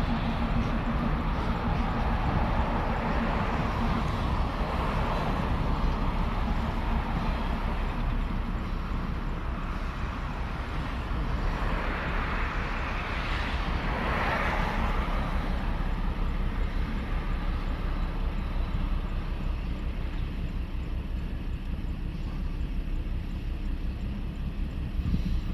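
Freight train rolling past: a steady low rumble of wheels on rails with a fast rhythmic flutter, and a louder swell of higher rushing noise about twelve to fifteen seconds in.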